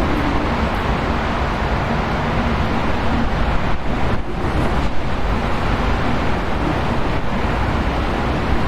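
Wind blowing in a steady, continuous rush that eases briefly about four seconds in.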